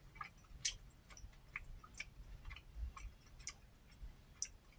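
Person chewing food with the mouth making a string of small, irregular clicks, about two a second.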